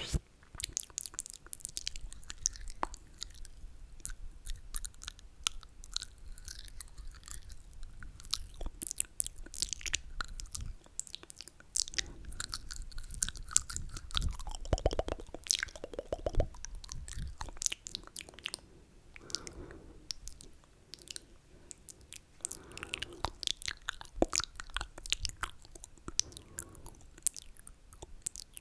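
Close-miked ASMR mouth sounds: wet slurping and sucking with many quick, sharp mouth clicks, and a few short low slurps in the second half.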